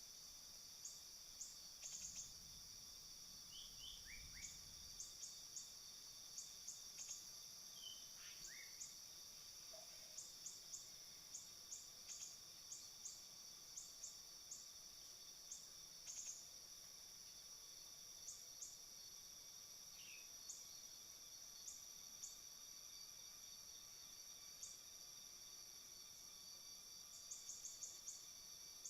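Faint forest ambience: a steady high-pitched insect drone, with short, high bird chirps repeating at irregular intervals and a few brief falling whistles.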